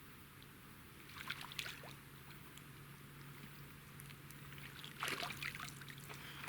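Faint rustling and handling noises in two short spells, about a second in and again near the end, over a low steady hum.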